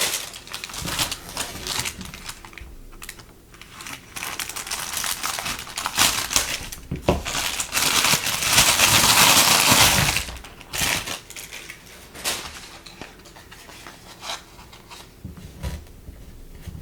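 Packaging being handled and opened by hand: crinkling plastic and paper with many small clicks and taps, swelling into a louder, longer rustle about eight to ten seconds in.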